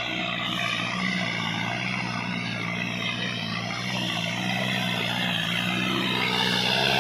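Sonalika DI 60 tractor's diesel engine running steadily, growing somewhat louder over the last couple of seconds.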